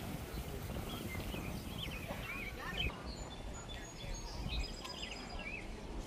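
Small birds chirping and calling in short bursts, mostly in the middle of the stretch, over a steady low outdoor rumble.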